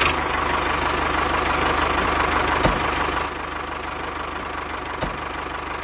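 Tractor engine idling with a steady low chugging knock. It drops a little in level about three seconds in, with a couple of faint clicks.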